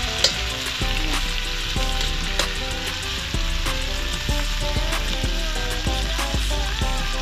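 Sliced tomatoes, onion and chili sizzling in hot oil in a metal wok, with the metal tongs that stir them clicking and scraping against the pan every second or so.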